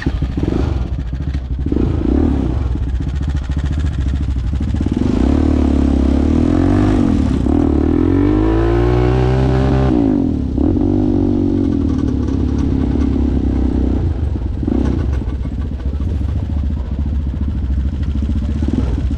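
ATV engine running under way, its pitch climbing for several seconds as the throttle opens and then dropping sharply about halfway through as it is eased off, with a few brief knocks.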